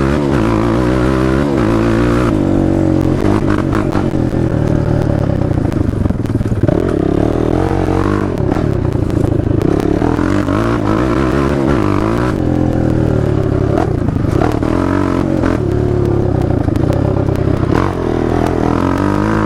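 Honda TRX450ER quad's carbureted single-cylinder four-stroke engine being ridden hard, its pitch climbing and dropping back again and again as the throttle is worked through the gears, with clatter and rattles from the machine.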